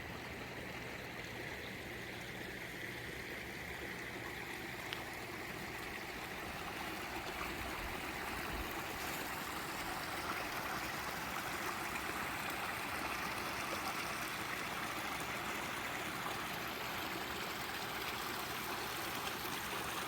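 Backyard pond waterfall running, a steady splashing and trickling of water that grows louder about eight seconds in.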